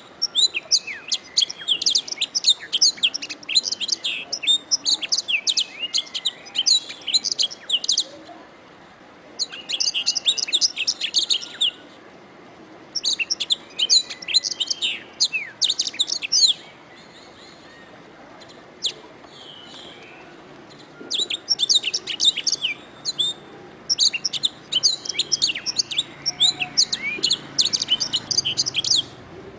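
Canary singing long, rapid trilling song phrases in several bursts, separated by short pauses and one longer pause of a few seconds in the middle.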